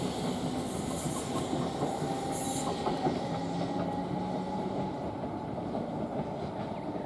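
Class 321 electric multiple unit pulling away along the track, a steady rumble of wheels on rails with a faint steady tone, slowly fading as it moves off.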